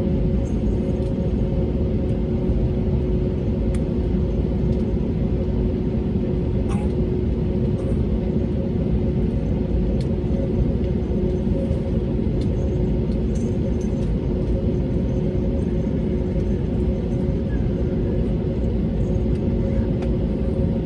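Steady low rumble inside the cabin of an Airbus A320neo, its Pratt & Whitney geared turbofan engines running at low power on the ground, with a constant hum of two steady tones and a few faint clicks.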